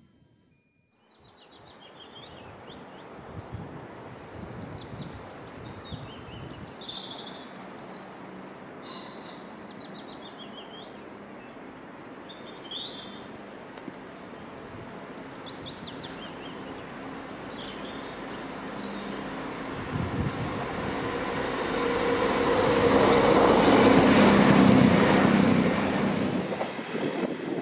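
Birds singing, then a train approaching and passing: a steady rumble that grows louder to its loudest about three-quarters of the way through and starts to fade near the end.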